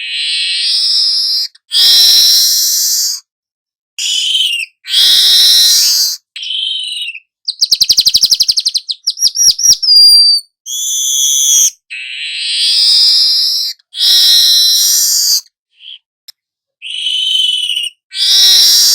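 Young manyar (weaver bird) singing in repeated buzzy, chattering phrases of one to two seconds with short pauses between them. About halfway through comes a fast trill of clicks followed by a few quick whistled notes.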